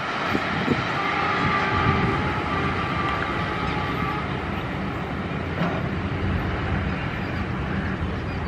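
Steady rumble and rattle of a passenger train's coaches running over the rails, with a faint high squeal of wheels on rail over the first few seconds.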